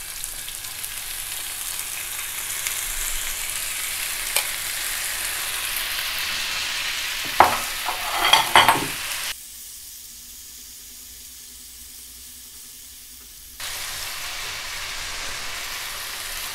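Marinated prawns sizzling as they fry in hot oil in a nonstick pan with sliced onions and green chillies, the sizzle growing louder as more pieces go in. A few sharp clicks and taps come about seven to nine seconds in. The sizzle then drops to a faint hiss for about four seconds before it returns.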